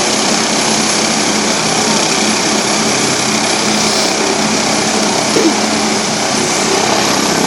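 Helicopter running on the ground just before lift-off: a loud, steady engine and rotor noise with a constant hum.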